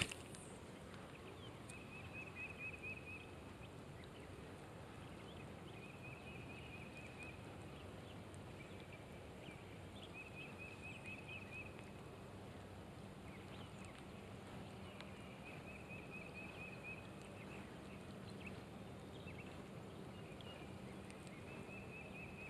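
Faint, steady hiss of light rain falling on a pond, with a short high trill of rapid pulses, an animal calling, repeated about every four seconds.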